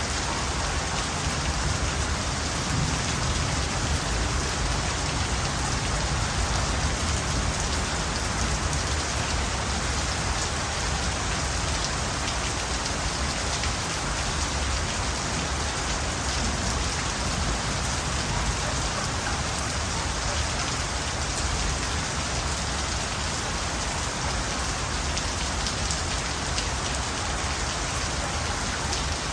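Steady rain falling, a dense, even patter of drops hitting surfaces.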